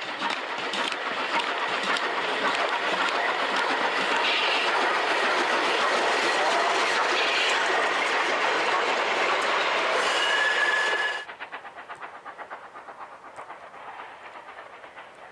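Train running on rails: a loud rushing noise with a few brief high tones near its end. About eleven seconds in it cuts off abruptly to a quieter, even clickety-clack of wheels over rail joints.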